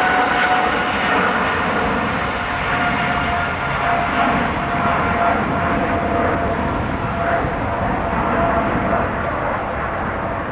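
Emirates Airbus A380's four jet engines at takeoff thrust: a loud, steady jet noise with a whine that sinks slightly in pitch and slowly fades as the airliner moves away.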